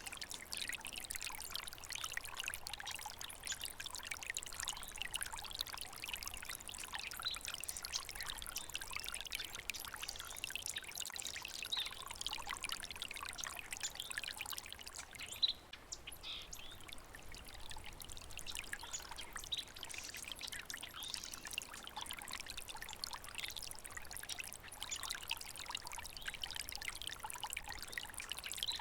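Small stream of water trickling and splashing steadily, with a brief dip in level about halfway through.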